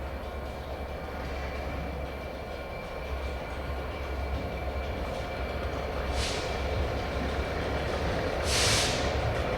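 A train moving through a station, its running noise growing slowly louder, with two short hisses of air about six and eight and a half seconds in, the second louder.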